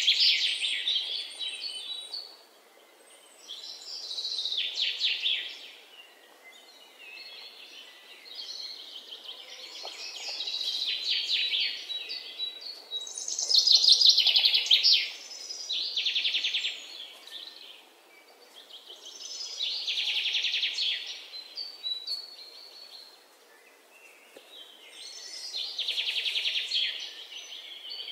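A songbird singing phrases of rapid trilled notes, each a second or two long, repeated every few seconds.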